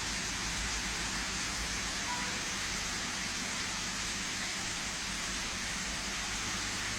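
Rain falling in a steady, even hiss during a thunderstorm downpour.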